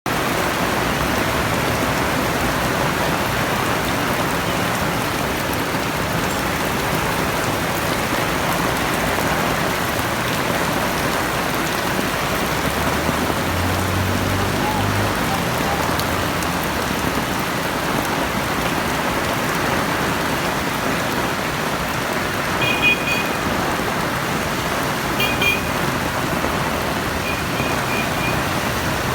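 Heavy rain falling steadily. A low rumble comes through about halfway, and a few short high-pitched beeps sound near the end.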